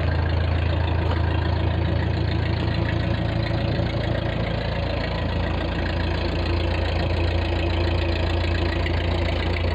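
1948 Ford 8N tractor's four-cylinder flathead engine idling steadily just after a cold start, with the choke still partly pulled out.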